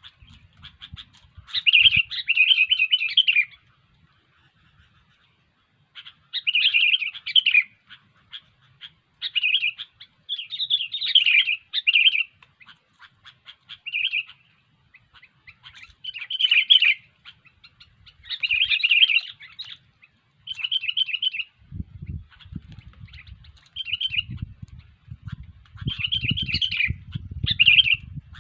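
Sooty-headed bulbul (kutilang) calls: short bursts of chattering notes repeated every couple of seconds. A low rumbling noise joins them for the last several seconds.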